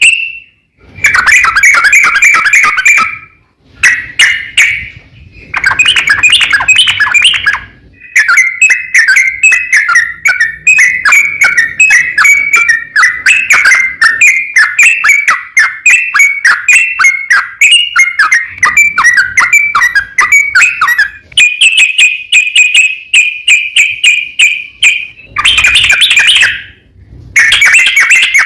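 Yellow-vented bulbul (trucukan) singing in loud bursts of rapid, bubbly chattering notes with short pauses between them, including one long unbroken run of chatter in the middle.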